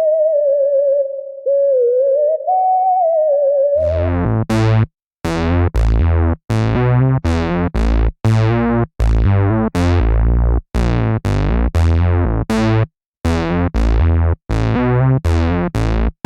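Roland System 8 synthesizer playing factory presets. First comes a smooth, pure-toned lead gliding between notes. About four seconds in, a different patch takes over with a steady run of short, punchy notes, each with a bright attack and a deep bass.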